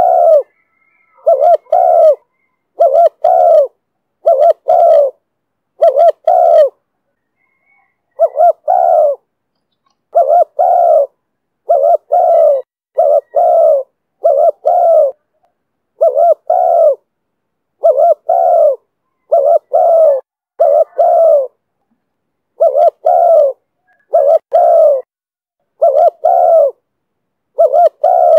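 Spotted dove cooing in the voice Vietnamese dove keepers call 'thổ thúc bổi': loud, low coo notes mostly in pairs, repeated every second or two, with short pauses twice.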